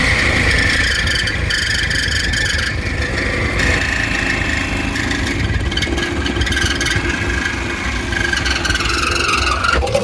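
Power saw cutting through a car's exhaust pipe, running steadily with a whining tone, then stopping abruptly near the end.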